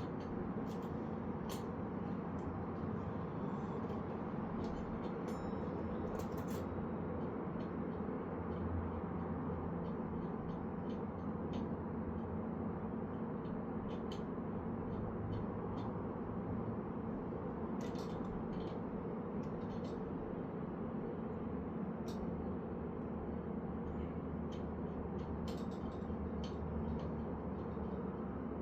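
Light, scattered clicks and taps of metal parts being handled while pedals are fitted to a bicycle's cranks, over a steady low hum.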